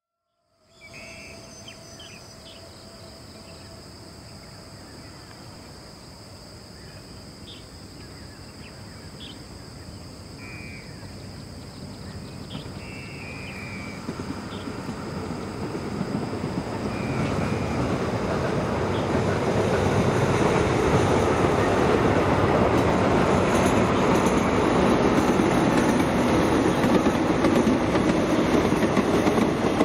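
Passenger train hauled by an Alsthom diesel-electric locomotive approaching, its engine and wheels on the rails growing steadily louder over about twenty seconds, then running at full volume as the coaches come level.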